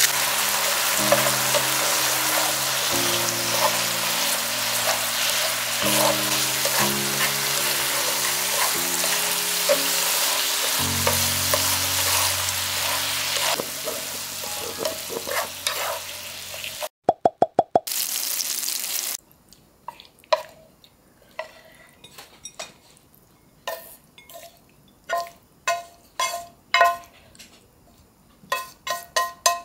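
Mushroom and vegetable strips sizzling in a frying pan as they are stirred with chopsticks, for a little over half the time. After a quick run of taps the sizzling stops, and scattered clicks and scrapes of chopsticks on the pan and plate follow as the stir-fry is served.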